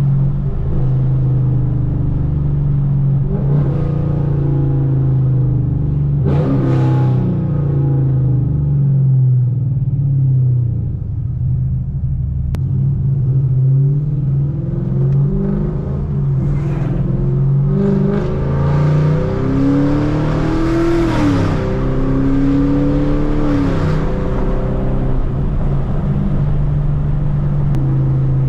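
Straight-piped Chevrolet Camaro V8 under way: the loud exhaust note climbs under acceleration and drops back at each gear change, several times over, with the strongest pull about two-thirds of the way through.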